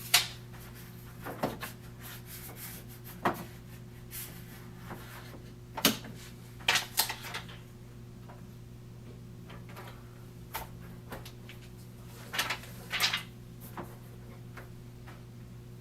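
Protective seal plastic being peeled off a Keurig K-2550 coffee maker, with scattered rustles and knocks of plastic being handled, over a steady low hum.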